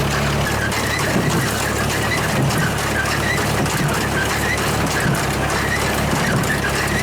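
Farm tractor engine running steadily while driving a hay baler as it packs leaves, with short high squeaks over the drone.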